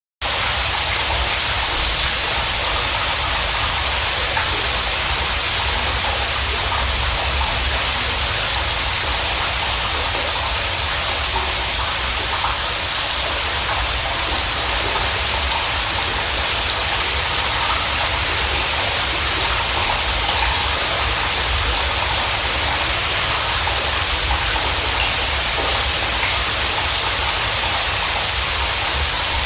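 Steady heavy rain: an even, loud hiss of falling water with a low rumble underneath, cutting in suddenly from silence at the very start.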